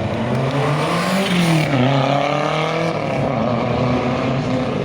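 Lancia Delta rally car's 2.0-litre four-cylinder engine revving up and down several times.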